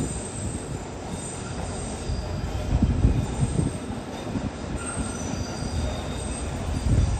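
A train moving through the station: a low rumble that swells about three seconds in and again near the end, with faint high wheel-squeal tones over it.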